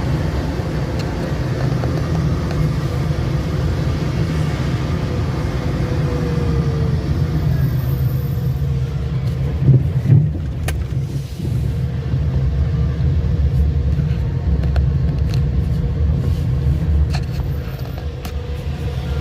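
Car driving along a highway: a steady low road rumble, with a brief louder bump and a couple of sharp knocks about halfway through.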